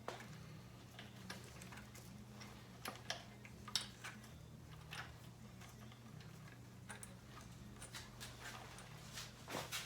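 Scattered light clicks and taps from hands working on motorcycle wiring, over a steady low hum.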